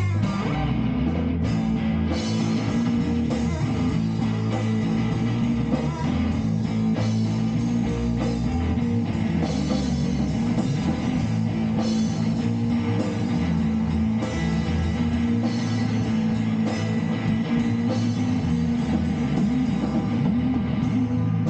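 Rock band playing an instrumental passage: electric guitar over a drum kit, steady and without vocals.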